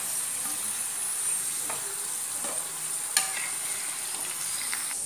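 Potato slices sizzling in hot groundnut oil in a pan while a metal spatula scrapes under them and lifts them out, with one sharp click a little after three seconds in.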